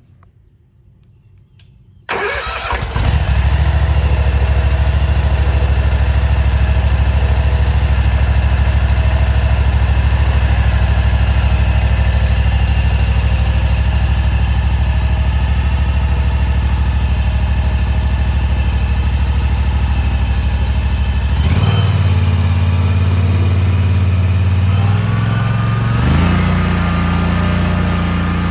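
Kawasaki FR-series V-twin mower engine starting about two seconds in, then running steadily on its newly fitted canister air filter. The engine speed steps up about 21 seconds in and again near 26 seconds as the throttle is opened.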